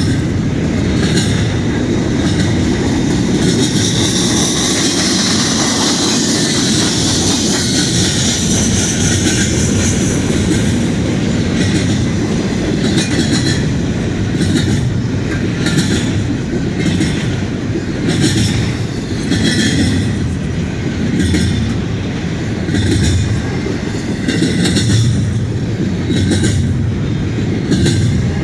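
CN intermodal freight train's cars rolling past at close range: a steady rumble with repeated wheel clicks over rail joints. A few seconds in, a high hiss swells for about six seconds.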